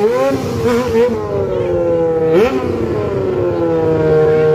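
Motorcycle engine revving: a few quick throttle blips, then a sharp rev about two and a half seconds in that winds down slowly.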